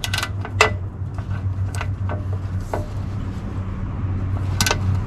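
Hand tools, a ratchet and sockets, clinking and tapping at the oil drain plug in a few irregular sharp metallic clicks, over a steady low hum.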